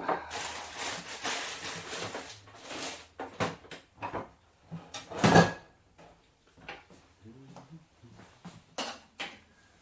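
Kitchen handling sounds during salad making: about three seconds of dense rustling, then scattered knocks and clicks, with one loud thump about five seconds in.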